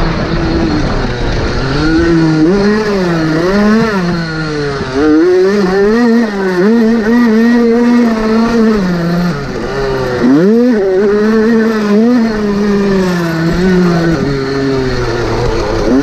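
Motocross motorcycle engine racing, its pitch rising and falling over and over with throttle and gear changes, with a sharp rev-up about ten seconds in.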